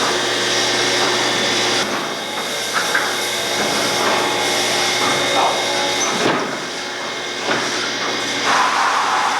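Dairy milking equipment running: the steady hiss and hum of the milking vacuum system, with a few short knocks or clanks.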